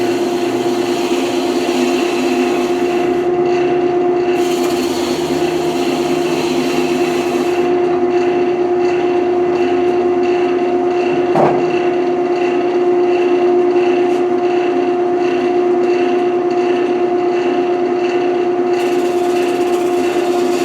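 Wood lathe running with a steady hum while a carbide turning tool cuts the spinning wood, the scraping hiss of the cut coming and going in three passes. A single short knock about halfway through.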